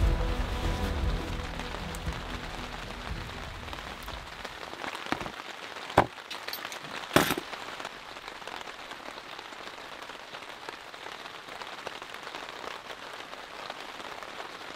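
Steady rain falling on tent fabric, an even hiss. Two sharp knocks stand out about six and seven seconds in, and a music tail fades away in the first seconds.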